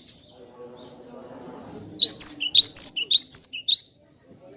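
Cinereous tit (glatik batu) singing: the end of one phrase right at the start, then, about two seconds in, a loud phrase of about six quick repeated sweeping notes that stops short.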